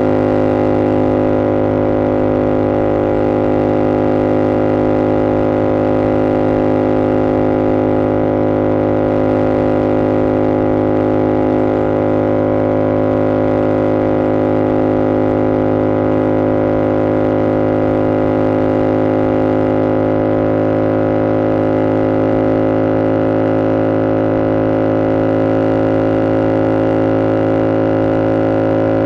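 2022 Yamaha R7's parallel-twin engine through an SC-Project CR-T exhaust, running at steady revs while cruising, a constant drone that holds one pitch throughout.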